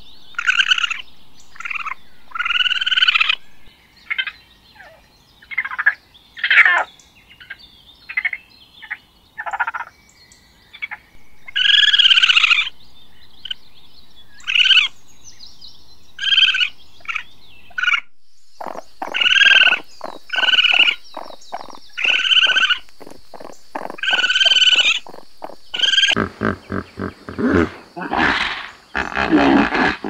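Raccoons calling: a run of short, high, chittering calls, then fast rattling trills near the end.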